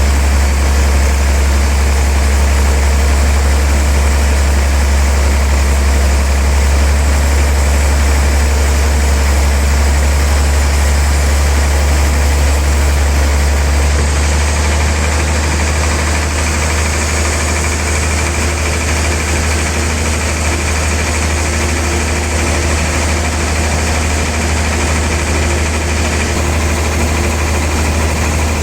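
Sawmill sawing machinery running steadily with a strong low hum; it gets a little quieter about halfway through.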